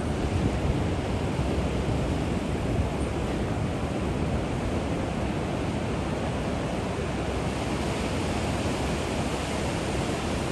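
Pacific Ocean surf breaking and washing in a steady, continuous rush.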